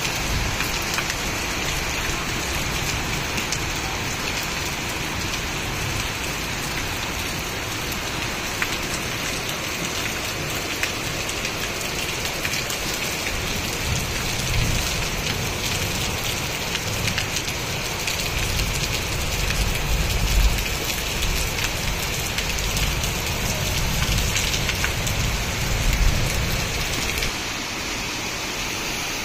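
Heavy rain pouring down steadily, with a low rumble swelling now and then in the second half.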